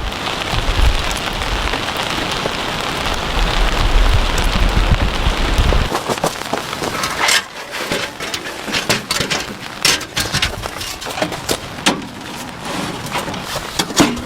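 Rain falling with a steady hiss over a low rumble; about six seconds in the rumble stops and individual drop taps stand out.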